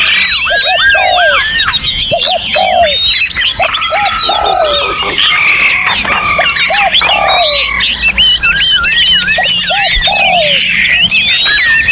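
A dense chorus of many songbirds singing at once: layered whistles, swooping notes and chirps. Through it, a lower curved two-part call repeats every second or two.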